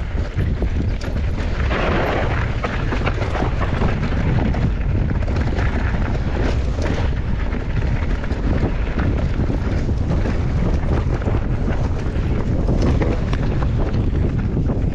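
Mountain bike riding fast down a rough bike-park trail: constant wind buffeting on the microphone over the tyres rolling on dirt and gravel, with many short knocks and rattles from the bike over bumps.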